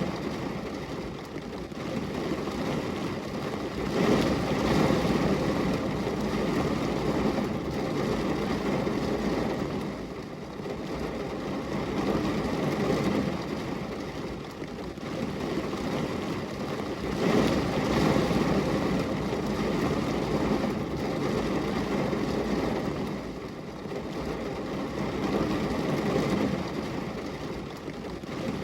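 Steady rain falling, a dense, even hiss with a deep body that swells and eases every few seconds.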